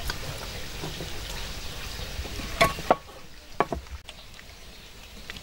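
Cooking sounds: a steady hiss that drops away about three seconds in, with a few sharp knocks of utensils or dishes.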